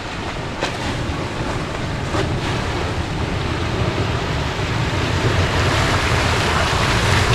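A 4x4 driving through a deep water hole on the trail: water splashing and churning against the vehicle over a low engine drone, growing louder toward the end.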